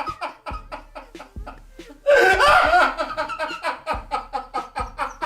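Hearty laughter in rapid repeated bursts, with a loud outburst about two seconds in that trails off into shorter, quieter pulses.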